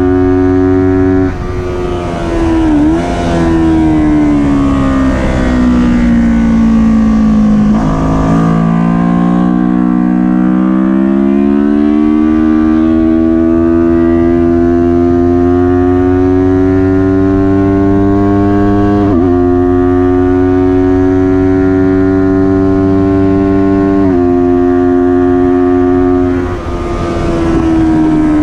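Kawasaki Ninja 400 parallel-twin engine at racing speed. Its note falls with several downshifts, then climbs steadily through the revs, with upshifts about nineteen and twenty-four seconds in, and falls again near the end as the bike slows.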